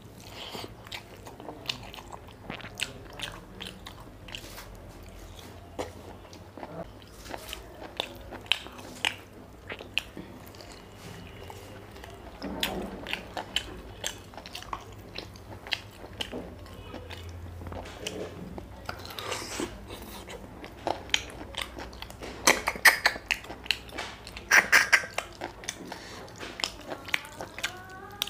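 Close-miked chewing and biting of mutton curry and rice eaten by hand: irregular wet smacks, lip and tongue clicks and occasional crunches, getting busier and louder near the end.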